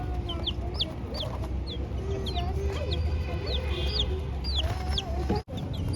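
Chicks peeping: many short, high chirps that slide downward, several a second, over lower clucking calls. The sound drops out for an instant near the end.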